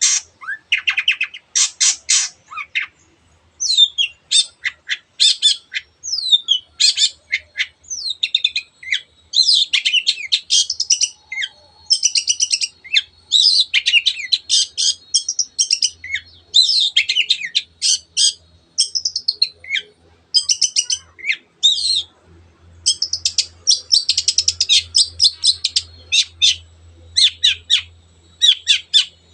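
A long-tailed shrike (cendet) singing vigorously: rapid strings of short, harsh notes mixed with sliding whistles, broken only by brief pauses.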